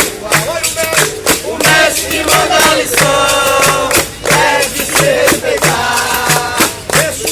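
Capoeira music: singing over a berimbau and hand percussion with tambourine jingles keeping a steady beat.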